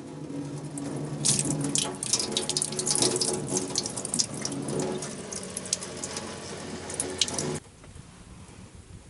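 Food sizzling and crackling on a hot iron griddle, a loud hiss with many sharp pops, cutting off suddenly about seven and a half seconds in.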